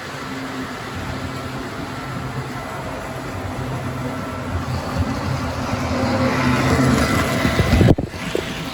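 Model train locomotive running along the track, its motor and wheels humming steadily and growing louder as it comes closer, then cutting off abruptly near the end.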